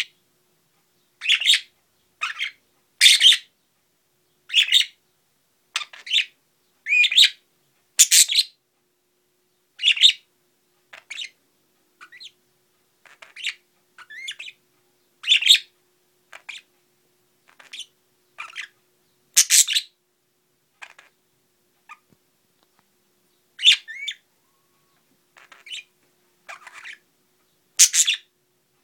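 Pet budgerigars chirping and warbling in short, high-pitched bursts, one every second or two with brief pauses between.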